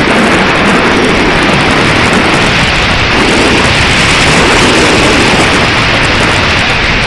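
Strong wind buffeting the microphone: a loud, steady rushing noise with a rumbling low end.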